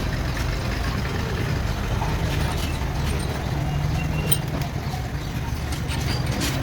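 A steady, low engine-like rumble, with scattered light clicks and taps over it.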